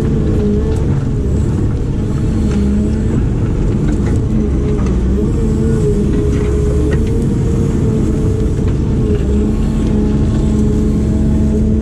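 Diesel engine of a heavy digging machine running steadily under load, with a wavering hydraulic whine over it and occasional light knocks.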